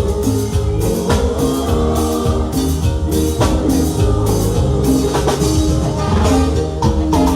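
Live cumbia band playing loudly, with drums keeping a steady beat.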